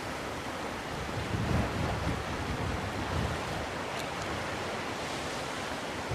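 Sea surf washing onto the shore in a steady wash of noise, with gusts of wind buffeting the microphone, the strongest about a second and a half in.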